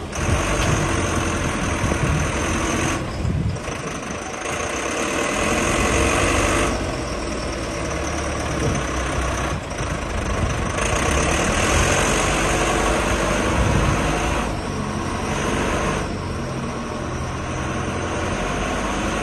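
Diesel engine of a JCB 4CX backhoe loader running, its tone and loudness shifting every few seconds.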